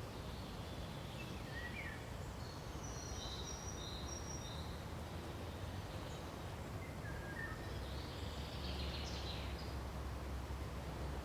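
Pine-forest ambience: a steady low background rush under scattered faint bird chirps, with a short run of high calls a few seconds in and another brief burst of calls near the end.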